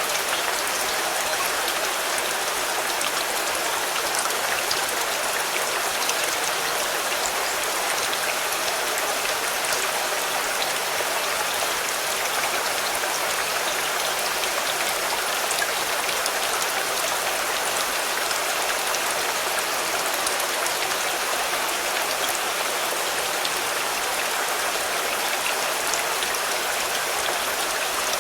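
Steady rain falling on a car, an even hiss with many small drop taps scattered through it.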